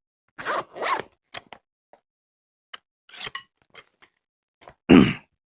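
Drumsticks being handled and taken out of a stick bag: rustling and a scatter of light clicks, with one louder thump near the end.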